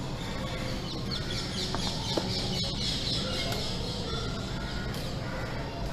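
Birds calling and chattering over a steady low background hum.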